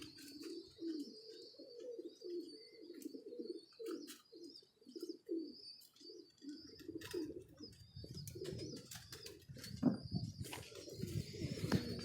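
Domestic pigeons cooing over and over, a steady run of short low coos, with scattered light clicks and taps. A low rumble joins about halfway through.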